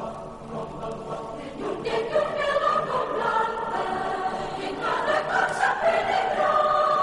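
Many voices singing together in held, sustained chords that shift in pitch every second or so, swelling louder about two seconds in.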